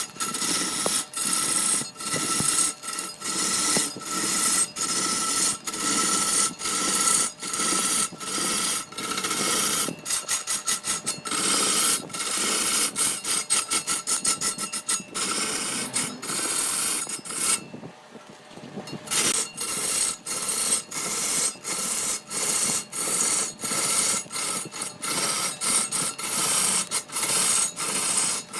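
A hand tool worked back and forth on wood, about two rasping strokes a second. The strokes quicken for a few seconds in the middle, then pause briefly before going on.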